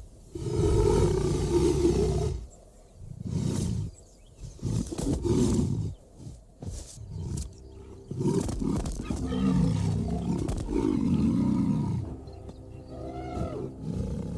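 Lion vocalizing: a series of low calls in several bouts, with short pauses between them.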